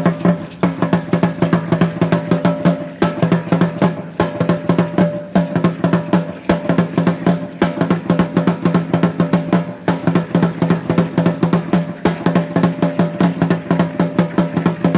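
Fast, driving drumming for Aztec Chichimeca dance, rapid strikes over a steady low ringing drum tone, with short breaks in the beat about three seconds in and near ten seconds.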